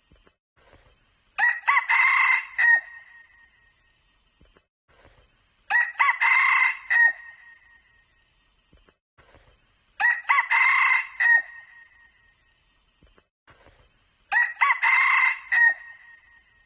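Red junglefowl cock crowing four times at even intervals, each crow a loud, clear call about a second and a half long.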